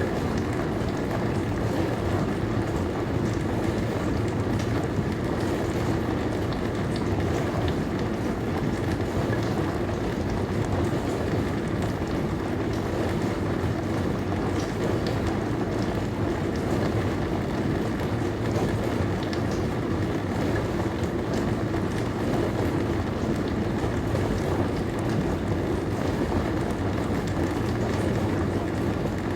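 Dishwasher running mid-cycle: a steady rush of spraying water over a low hum, with faint scattered ticks.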